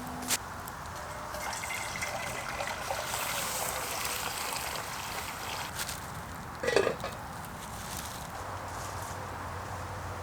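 Steady trickle of water, with a single knock about two-thirds of the way through.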